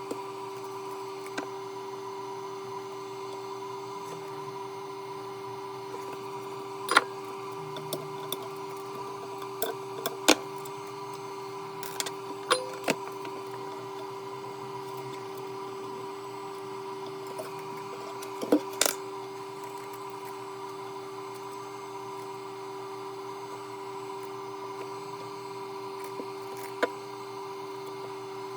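A steady two-tone electrical hum with about a dozen scattered clicks and knocks over it, the loudest about seven, ten and nineteen seconds in.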